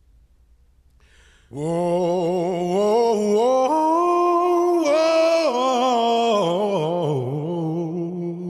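A male voice singing long, drawn-out 'whoa' notes unaccompanied, with no beat underneath, starting about a second and a half in after near silence.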